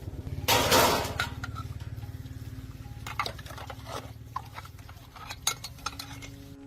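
Metal clinking and knocking, typical of tools and parts being handled during an axle repair, over a steady low engine-like hum. A loud rush of noise comes about half a second in, and scattered sharp clinks follow in the second half.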